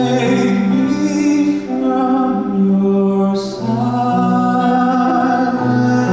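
A man singing a slow song live, holding long notes that step from pitch to pitch, with short breaths or consonants between phrases.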